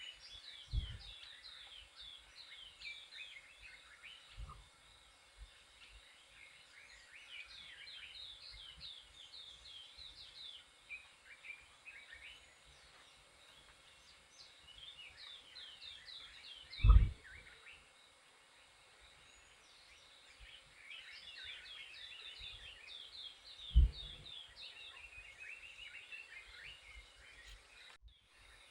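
Many small birds chirping and calling in busy flurries of short, high notes. Four dull low thumps break in, the loudest about halfway through.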